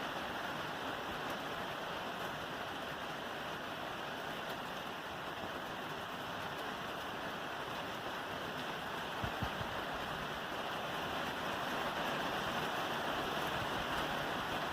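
Rain falling steadily on a roof, an even continuous patter, with a couple of faint low knocks about two-thirds of the way through.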